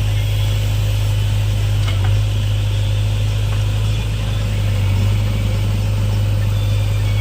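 JCB backhoe loader's diesel engine running steadily with a deep, even hum, with a faint knock about two seconds in.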